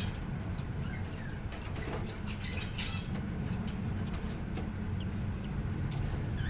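Budgies chirping in short scattered calls, with light clicks, over a steady low hum.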